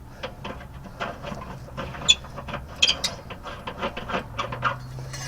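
Ratchet wrench clicking in quick, uneven runs with a few louder metal clacks, as a mower blade bolt is worked loose under the mower deck.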